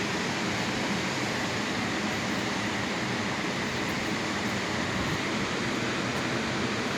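Steady rushing roar of a waterfall, an even wash of noise without breaks.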